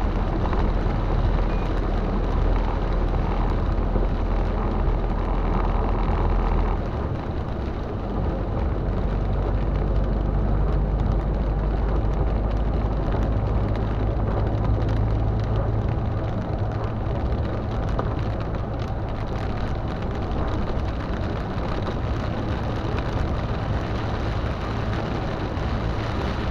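Car driving in heavy rain: a steady mix of engine and tyre noise with rain falling on the car. The low engine hum changes about seven seconds in.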